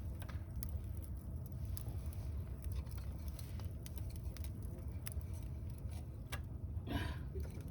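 Wood campfire crackling, with sparse sharp pops over a steady low rumble.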